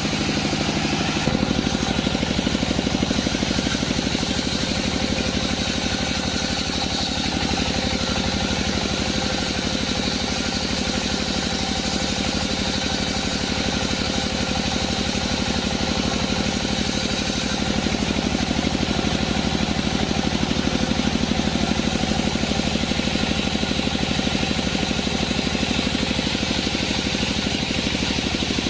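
Sawmill machinery running steadily with an engine's rapid, even pulse, the sound of a bandsaw mill at work; its low pitch shifts slightly about a second in.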